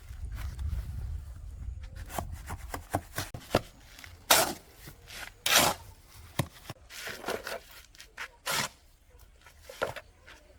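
A string of irregular knocks, taps and scraping sounds, a few of them louder, with a low rumble during the first two seconds.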